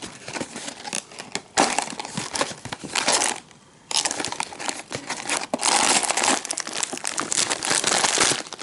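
Snack packaging crinkling and rustling as it is handled and torn open, in uneven spells with a brief pause about three and a half seconds in.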